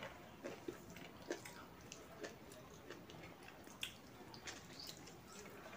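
Close-miked eating sounds: wet chewing, lip smacks and sticky mouth clicks as smoked pork intestine and millet rice are eaten by hand, in irregular short snaps with a few sharper ones.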